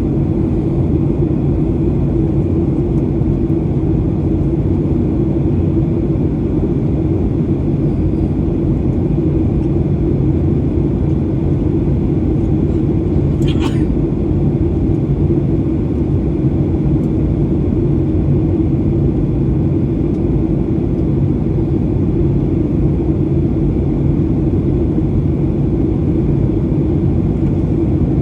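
Steady cabin drone of a Boeing 737-800 in flight on approach, its CFM56-7B engines and the airflow making an even low hum with no change in level. A single brief click comes about halfway through.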